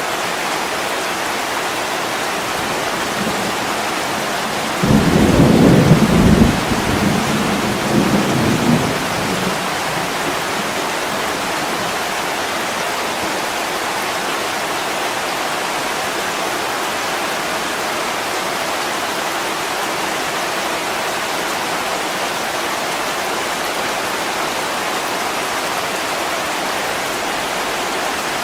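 Steady heavy rain on a window, with a clap of thunder about five seconds in that rumbles for about four seconds, swelling once more before it fades.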